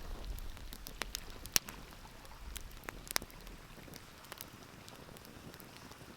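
Wood fire crackling, with irregular sharp pops; the loudest pop comes about a second and a half in. A low rumble underneath fades out about halfway through.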